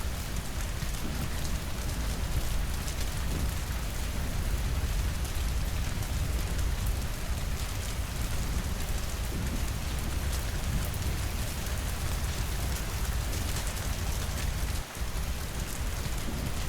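Steady rain falling against windows: an even hiss with fine drop patter and a deep low rumble underneath. Near the end the sound dips for a moment.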